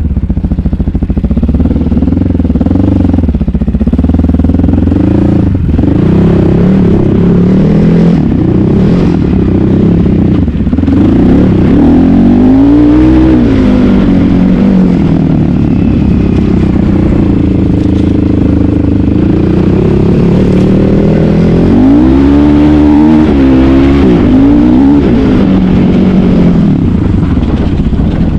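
Asix XT97 300cc enduro motorcycle engine running under load while ridden off-road. The pitch rises and falls again and again with the throttle, with big revs about twelve seconds in and again near the end.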